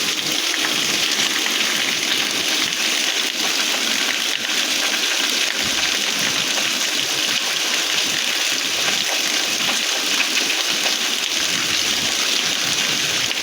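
Steady rain falling, an even hiss that does not change throughout.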